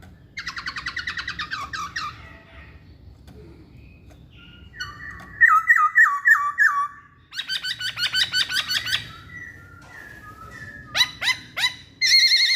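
Masked laughingthrush (poksay hongkong) singing loud, varied phrases. Fast rattling trills alternate with a run of clear, looping whistled notes, and the song ends in a few sharp downward-sweeping notes.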